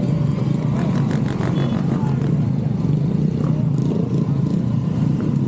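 Motorcycle engine running steadily while riding, at a constant level with no revving.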